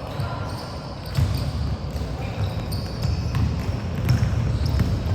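A basketball bouncing on a court floor in a game, giving repeated low thuds, with short high squeaks from time to time.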